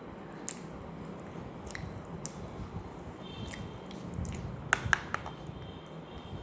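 A person biting and chewing something dry and crunchy: a few scattered sharp crunches, the loudest coming close together about five seconds in, over a steady low hum.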